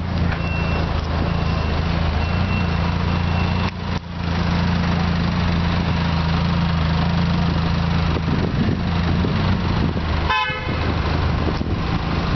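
Lotus Exige's four-cylinder engine idling with a steady low hum, and a short car horn toot about ten seconds in.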